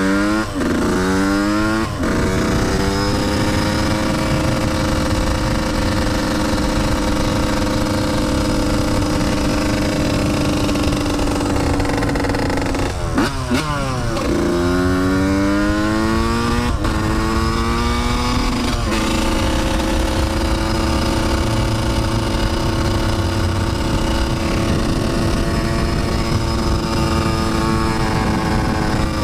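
Dirt bike engine accelerating through the gears, its pitch rising and dropping back at each upshift, then holding steady at speed. About halfway through it falls away briefly and climbs through the gears again before settling into a steady run.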